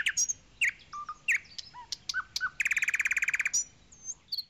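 Songbirds chirping: scattered short whistled chirps and slurred notes, with a fast, even trill lasting about a second past the middle.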